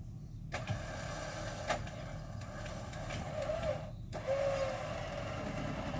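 Recovery winch running under load, hauling cable to drag the stuck vehicle's rear end sideways. It starts about half a second in and stops briefly about four seconds in before pulling again.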